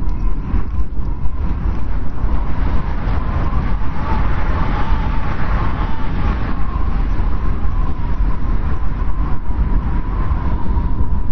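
Strong wind blowing, a deep steady rumble with a thin wavering whistle above it that swells about four seconds in.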